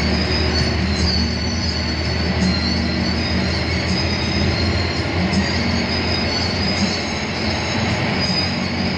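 A moving bus heard from inside the cabin: steady engine and road drone, with mid-pitched whines and thin high-pitched squeals coming and going.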